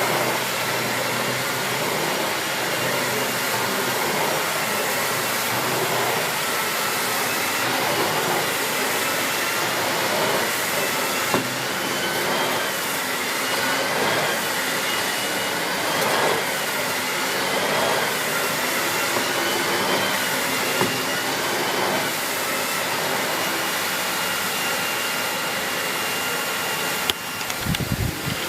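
Miele S6 Cat and Dog cylinder vacuum cleaner with its 2000 W motor running steadily, with a wavering whistle over the rush of air. The sound swells about every two seconds as the floorhead is pushed back and forth. A brief knock and a drop in the noise come near the end.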